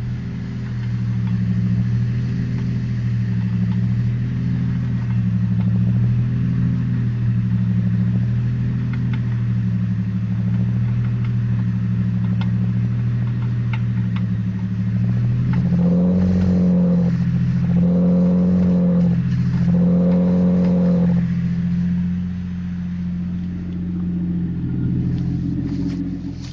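Chevrolet Trailblazer engine running in gear with the raised wheels spinning, a steady hum that pulses gently about once a second. Its note swells and rises three times, a little past halfway through, then settles back.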